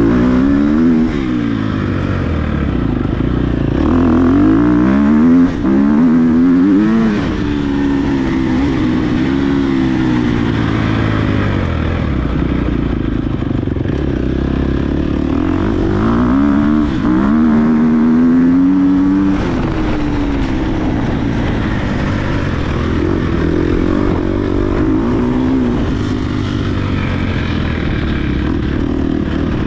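Dirt bike engine under race throttle off-road, its pitch climbing and dropping again and again as the rider opens and closes the throttle and shifts. The hardest runs up in pitch come around five seconds in and again past the middle, and it runs steadier near the end.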